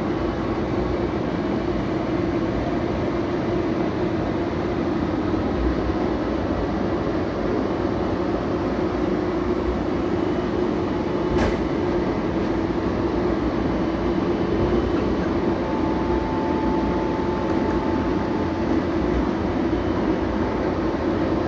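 Cabin noise of an AirTrain JFK people-mover car running along its elevated guideway: a steady rumbling ride noise with an even hum. There is a single sharp click about halfway through.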